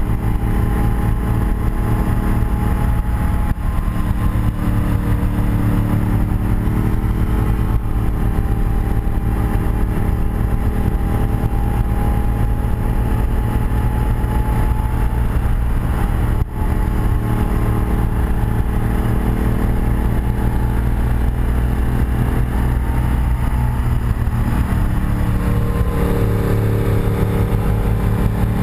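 1984 BMW R100RS's air-cooled boxer twin running steadily under way, mixed with wind rush on the chest-worn microphone; near the end the engine note drops and then climbs again.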